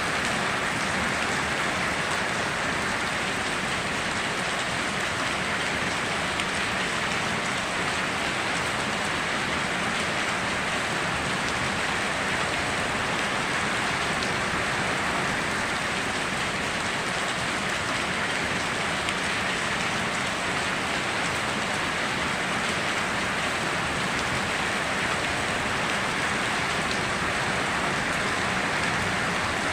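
Steady heavy rain falling on foliage and ground, an even hiss with no breaks or thunder.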